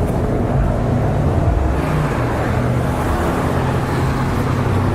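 Steady road traffic noise, with the low hum of running vehicle engines.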